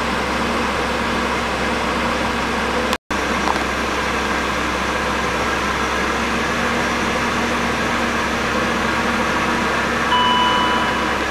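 BMW E38's engine running steadily at a constant speed, with an even drone. The sound breaks off for an instant about three seconds in, and a thin, steady high tone joins near the end.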